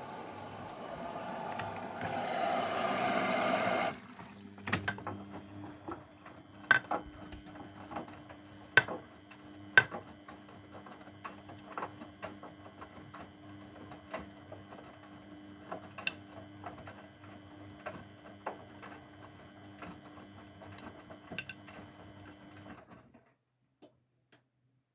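Grundig washing machine running: a loud rushing noise cuts off suddenly about four seconds in. A steady motor hum follows, with scattered sharp clicks from the drum. The machine stops about a second and a half before the end.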